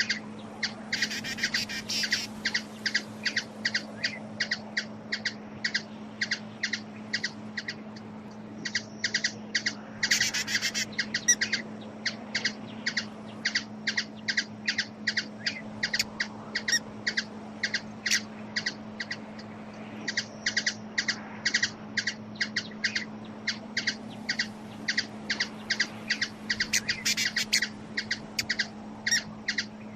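Hummingbird chip calls: short, high chirps repeated rapidly, about three to four a second, with denser, brighter flurries about a second in, around ten seconds in and near the end. A steady low hum runs underneath.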